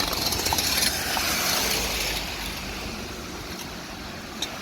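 Steady hiss of heavy rain and running water, louder for about the first two seconds, with a couple of small knocks.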